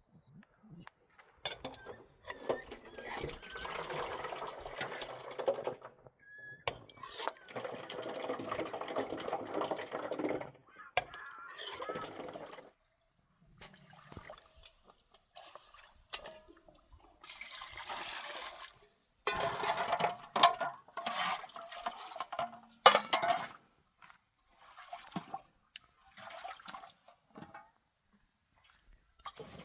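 Water splashing and pouring in repeated bursts of a few seconds each, with short gaps between them, and one sharp knock a little over two-thirds of the way through.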